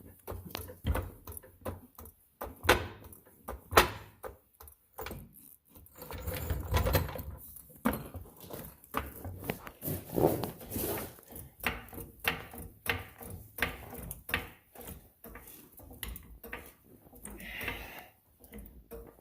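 Irregular clanks, clicks and knocks of metal tools and parts being handled and set down, with some scraping and rummaging in between.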